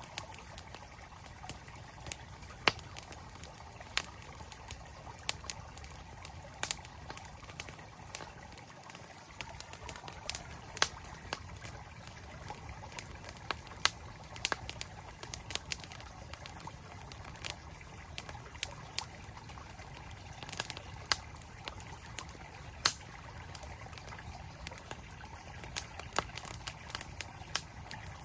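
Wood campfire crackling, with irregular sharp pops, over the steady rush of a mountain stream.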